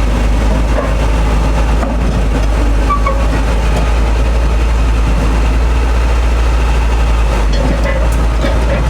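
Excavator's diesel engine running steadily with a constant low rumble.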